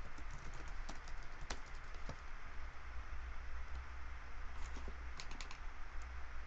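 Typing on a computer keyboard: scattered key clicks with a quick run of several near the end, over a steady low hum.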